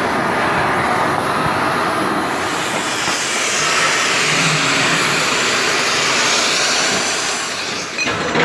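Cutting torch cutting through the worn steel of a Cat D6N bulldozer blade, making a loud, steady hiss with a brief dip near the end.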